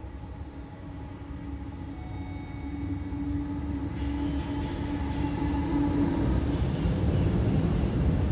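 EH500 electric freight locomotive approaching and passing, growing steadily louder, with a steady hum over the rail rumble that gives way to heavier rumbling near the end.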